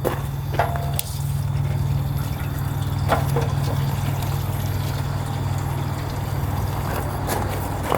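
Two-stroke premix fuel, gasoline mixed 40 to 1 with oil, being poured into a motorcycle's gas tank: a steady pouring and splashing of liquid, with a few light clicks.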